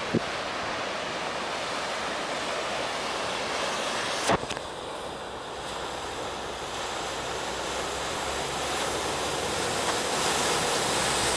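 Steady rush of floodwater, growing louder over the last few seconds as a vehicle wading through it pushes a wave of water in. A single sharp knock about four seconds in.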